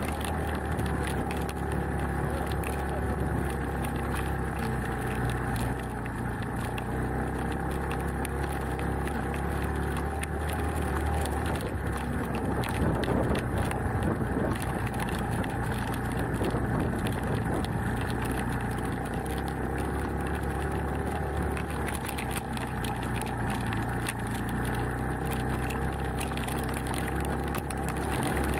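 Beta Alp trail motorcycle's single-cylinder four-stroke engine running steadily on a slow climb over a rough stony track, a little louder about halfway through.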